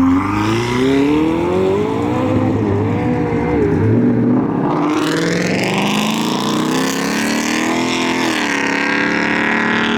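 Car engine revving hard as the car accelerates away, its pitch climbing and then dropping back a couple of times.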